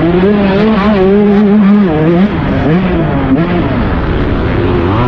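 Motocross bike engine running hard under throttle, its pitch holding steady, then dipping and rising several times as the rider rolls off and gets back on the gas.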